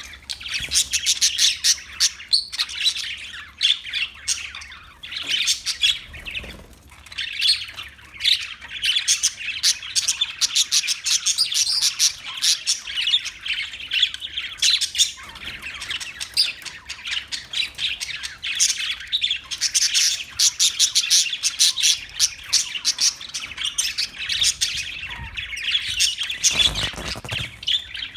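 A group of parakeets chirping and squawking in dense, rapid, overlapping chatter.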